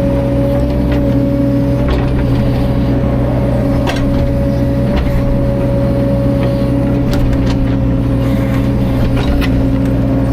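Caterpillar 305.5 mini excavator's diesel engine running steadily under load, with a constant hydraulic whine and a few light knocks scattered through.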